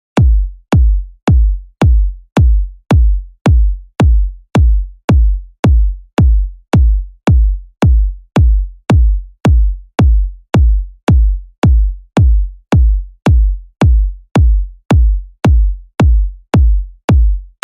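Electronic kick drum playing alone in a steady four-on-the-floor beat, about two hits a second, each a deep low hit whose pitch drops quickly.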